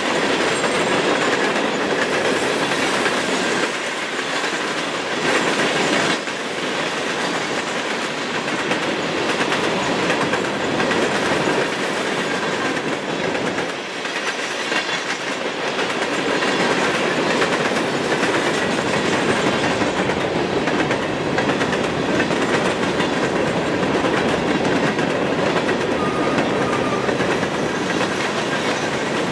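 A long freight train of open-top hopper cars rolling steadily past, its steel wheels clattering over the rail joints in a continuous rumble.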